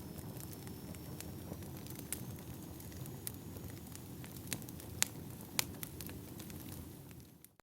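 Wood fire crackling: a steady low rumble of burning logs with scattered sharp pops, the two loudest about five and five and a half seconds in. The sound fades out right at the end.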